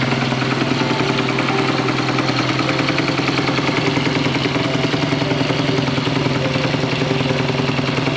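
Small four-stroke motorcycle engine idling steadily.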